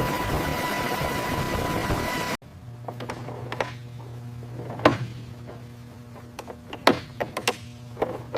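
Loud, steady helicopter engine and rotor noise with a high whine, cutting off suddenly about two seconds in. A low steady hum follows, with scattered sharp mechanical clicks and taps.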